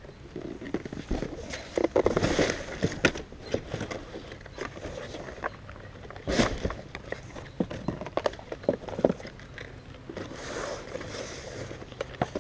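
Cardboard box and packing material being handled: irregular rustling, scraping and knocks as the packing is stuffed back into the box, with one sharper knock about halfway through.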